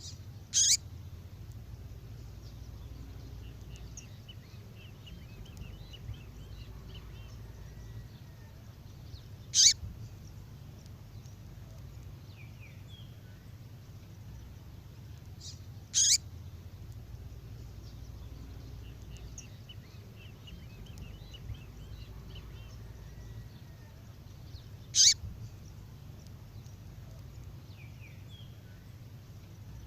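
Recorded female songbird call of the kind played to excite male 'fibra' birds: four short, sharp calls that sweep downward in pitch, several seconds apart, with faint rapid twittering between them over a low steady hum. The sequence repeats as a loop.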